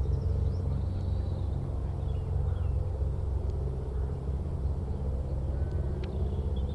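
Low, steady engine drone of a passing motor vehicle, with a few faint bird chirps above it.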